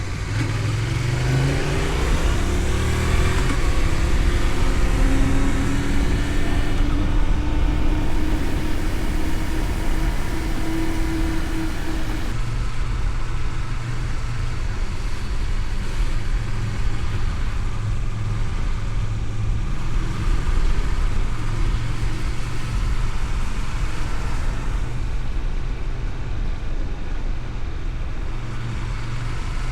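Honda VTR250 V-twin motorcycle engine accelerating, its pitch rising over the first few seconds, then holding a steady note; about twelve seconds in that note gives way to a lower, steady running hum.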